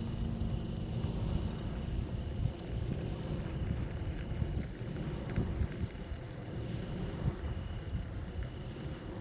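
Gusty wind, a low rumbling noise that swells and falls from moment to moment, with a faint steady high tone underneath.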